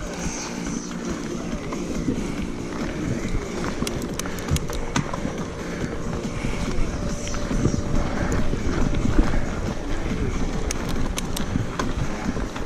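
Mountain bike moving over a dirt singletrack trail: a continuous low rumble and scuffing, with scattered sharp clicks and rattles.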